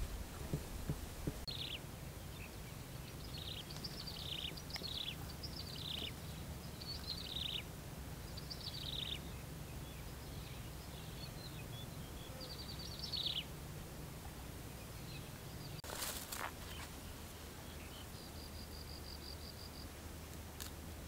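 Wild birds calling: a run of short, high chirps, each sweeping downward, then a quick trill and later a high buzzy trill, over a low steady rumble. One sharp click comes past the middle.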